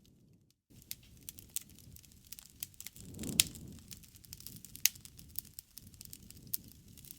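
Wood fire in a fireplace crackling, with scattered sharp pops over a low rumble of the flames; a louder pop comes about three and a half seconds in and another near five seconds. The sound cuts out briefly just after the start.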